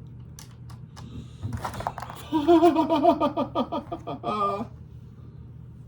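Small plastic Lego pieces clicking a few times, then a short rattle of bricks. After that comes a louder wavering pitched vocal sound with no words, lasting about two seconds, ending in a brief rising note.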